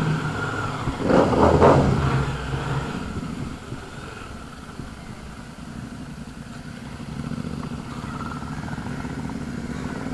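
Benelli Imperial 400's single-cylinder engine running as the motorcycle rides along, louder for the first two seconds or so, then settling to a quieter, steady drone.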